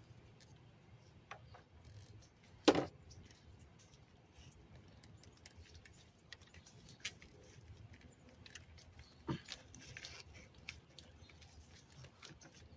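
Scattered light clicks and taps of metal parts and tools being handled while a fuel injector is pulled from the engine. There is one sharp knock about three seconds in and a smaller one near nine seconds.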